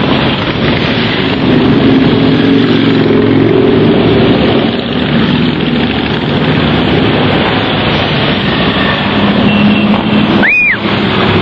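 Many motorcycle engines running together as a stream of bikes rides past, a loud continuous engine noise. A short high tone sounds briefly about ten and a half seconds in.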